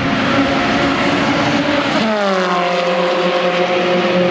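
Two Ferrari sports cars driving past at speed on a race track, their engines running hard. About two seconds in the engine note drops sharply in pitch as they go by, then holds lower as they move away.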